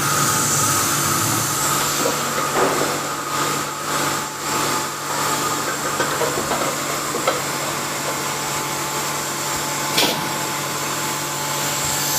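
Intermac CNC machine running with a steady hum and a thin high whine over a hiss, with a sharp click about ten seconds in.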